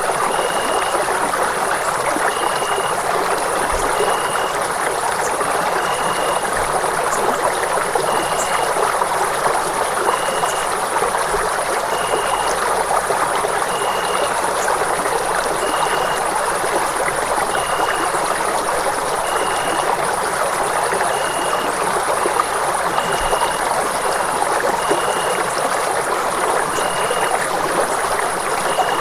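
Steady, even rush of running water, with no changes through the stretch. A faint short high tone repeats over it about every second and a half.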